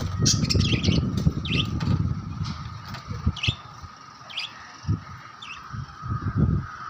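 Pet lovebirds chirping: short, high chirps every second or so, over an uneven low rumbling noise.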